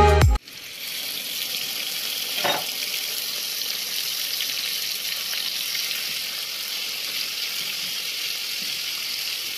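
Garlic-ginger paste and then raw diced chicken sizzling in hot oil in a frying pan, a steady hiss, stirred with a wooden spatula. A short knock comes about two and a half seconds in.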